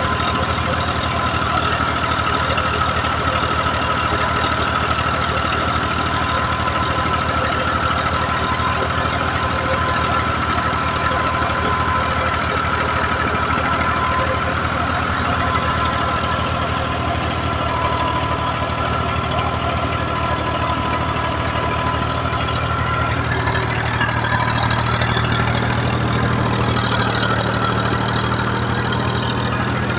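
Al-Ghazi tractor's diesel engine running steadily. A wavering higher-pitched sound joins in the last third.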